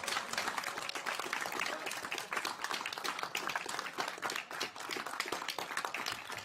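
A room full of people applauding, dense, steady clapping.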